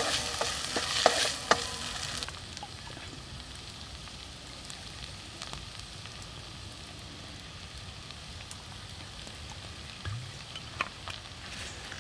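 Noodles and shrimp frying in a metal pot, with a wooden spatula scraping and clacking against the pot over a sizzling hiss for about the first two seconds. The sound then drops suddenly to a quieter steady sizzle with occasional small ticks, and there is a brief louder moment with a click about ten seconds in.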